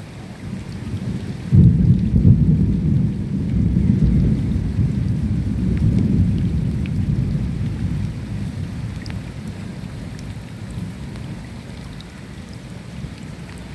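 Steady rain with scattered drop ticks, and a rolling thunderclap that breaks in suddenly about a second and a half in, then rumbles on and slowly fades away.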